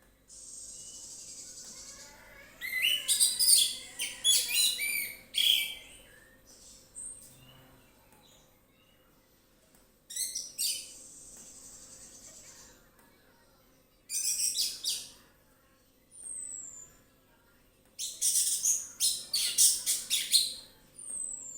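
Orange-headed thrush singing: four bursts of rapid, varied high phrases separated by pauses. A steady high hiss runs for about two seconds near the start and again in the middle, and two short falling whistles come near the end.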